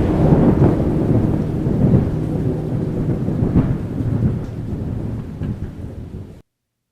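Low rumbling noise, slowly fading, then cutting off suddenly to silence about six seconds in.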